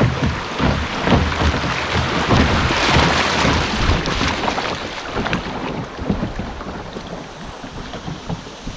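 Canoe on a river: water rushing and splashing with wind buffeting the microphone, a dense hiss with many low thumps that is loudest in the first half and eases off toward the end.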